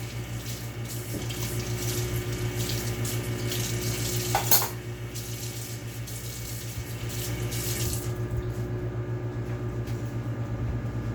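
Kitchen tap running into the sink while a fork is washed, with a brief knock about four and a half seconds in; the water shuts off about eight seconds in. Under it the microwave oven runs with a steady low hum.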